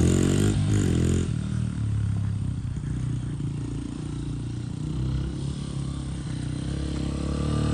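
2005 Honda CRF80's small single-cylinder four-stroke engine running steadily on its first run after years of sitting, burning off and smoking. It eases down over the first few seconds and picks up slightly near the end.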